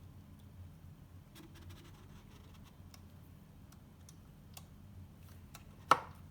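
Light metallic clicks and taps from handling engine parts, then one sharp metal clink near the end, over a low steady hum.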